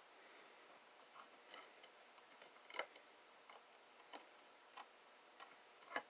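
Faint light clicks and taps of small jewellery parts and tools being handled on a soldering pad, at uneven spacing, with two louder taps about three seconds in and near the end.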